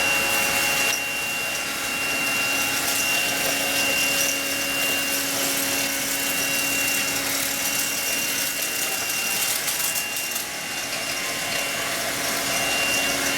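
Eureka 96H cordless stick vacuum running with its motorised brush roll turning: a steady motor whine over a hiss of airflow, as it works over sand spread on carpet.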